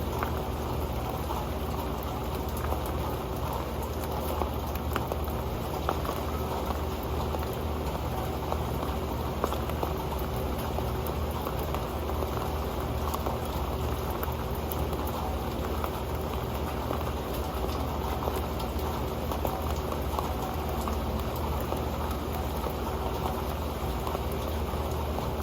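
Rain falling on an old pan: a dense, steady patter of drops on the metal, even in level throughout.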